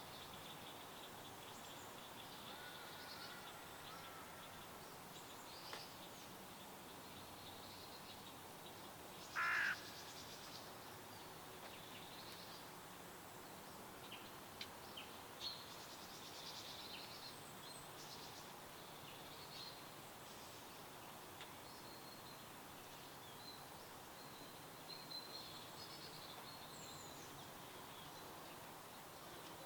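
Wild birds chirping, with short calls scattered throughout over a steady background hiss. One louder, lower-pitched call comes about a third of the way in.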